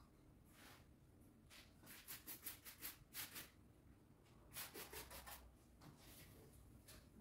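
Faint, quick hissing strokes of hand cleaning work: a run of about eight in under two seconds, then a few more a little later.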